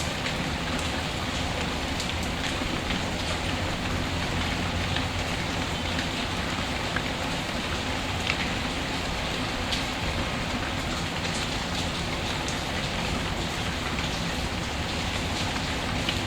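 Steady rain, with scattered sharp crackles and pops from a wood fire.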